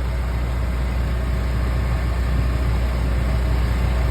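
A running engine drones steadily and low, with a constant hiss over it.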